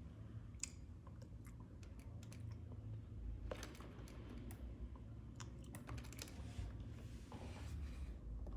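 Computer keyboard keys tapped irregularly, in short clusters of clicks.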